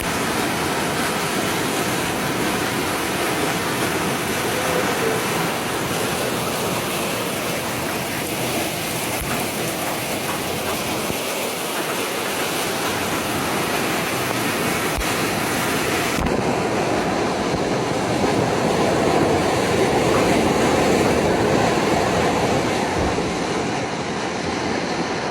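Heavy rain and rushing floodwater: a steady, even rushing noise. About sixteen seconds in, the highest hiss drops away abruptly.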